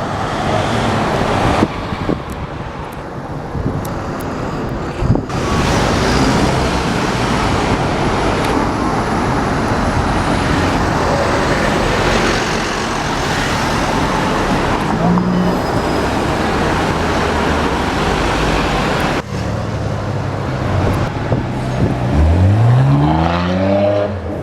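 Busy city street traffic running steadily. Near the end a car engine revs up hard under acceleration, its pitch rising steeply for about two seconds.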